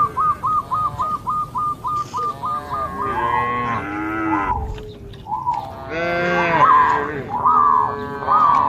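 Cattle mooing, several animals calling over one another in a string of overlapping moos. In the first two or so seconds there is also a quick run of short, high repeated notes, about five a second.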